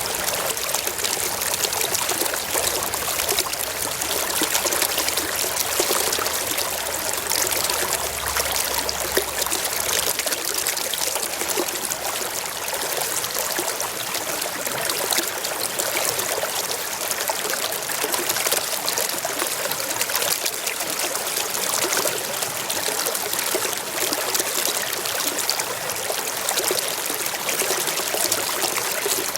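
A small stream running steadily over rocks, a continuous even rush and trickle of water.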